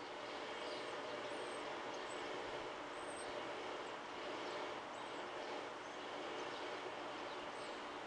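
Small birds giving short, high chirps, one every second or so at irregular intervals, over a steady background hiss.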